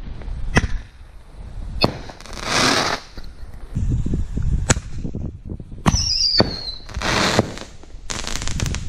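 Consumer aerial fireworks going off: a series of sharp bangs with two stretches of crackling hiss. A shrill whistle falls in pitch about six seconds in, and a rapid run of crackles comes near the end.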